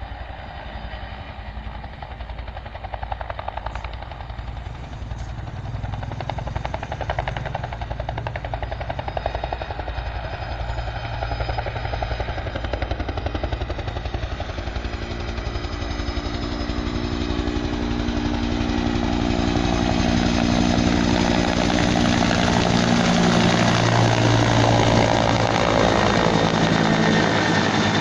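Bell 212 helicopter running close by, its two-blade rotor making a steady rhythmic chop. About halfway through an engine tone joins in and the sound grows louder toward the end.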